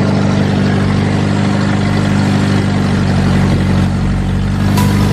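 A motorized boat's engine running steadily at cruising speed, with a rush of wind and water over it. Near the end a short chime-like tone comes in.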